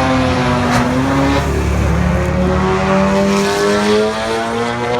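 1989 Mustang GT's 5.0-litre V8 with GT40 cylinder heads at full throttle on a drag-strip pass, the engine note climbing steadily through the gears. There is a shift about a second and a half in and another right at the end.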